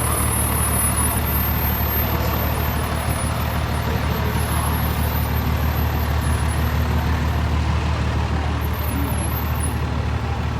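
A large vehicle's engine running steadily in a low, even drone, as parade vehicles pass slowly.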